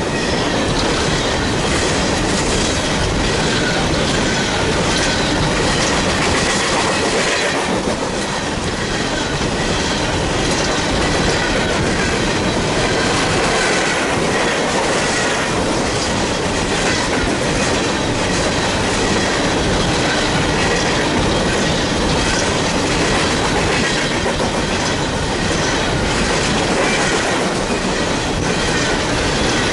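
Union Pacific coal train's cars rolling past, wheels clicking rhythmically over the rail joints, with a thin, steady wheel squeal.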